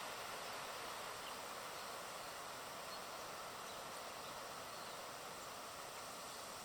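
Steady outdoor background hiss, even and unbroken, with no distinct bird calls standing out.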